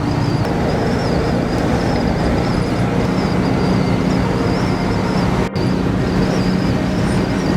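Steady road and engine noise inside a moving car's cabin, with a constant low hum. It drops out for an instant about five and a half seconds in.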